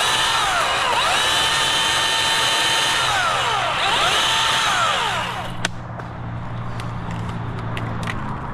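Electric chainsaw running at full speed, its whine dipping in pitch again and again as the chain bites into the oak and rising back when it frees up. The saw stops about five and a half seconds in, followed by a sharp crack.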